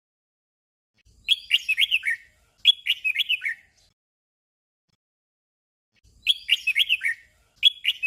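Red-whiskered bulbul singing its short doubled song: two quick warbled phrases in a row, a pause of about two seconds, then the pair again.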